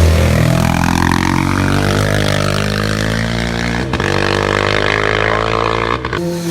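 Racing motorcycle engine accelerating hard on a hill climb, its pitch rising steadily, with a brief break about four seconds in.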